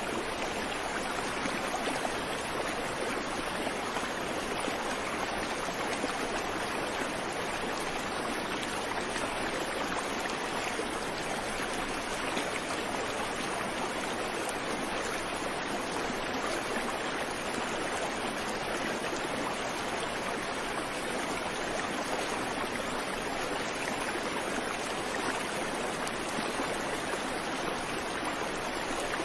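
Creek water flowing and babbling over stones, a steady rushing with no birdsong.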